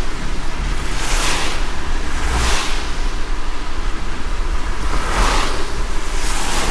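A car driving in light rain: a steady low road-and-engine rumble under a wash of rain noise. A short swish repeats in pairs about a second apart, twice.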